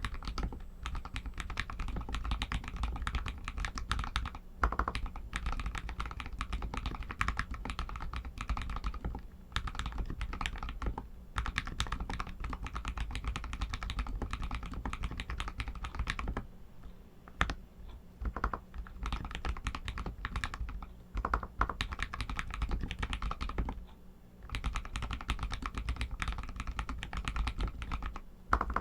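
Steady fast typing on a Royal Kludge RK61 60% mechanical keyboard with Outemu Red linear switches: a dense run of key clacks, with short pauses about two-thirds of the way through and again a little later.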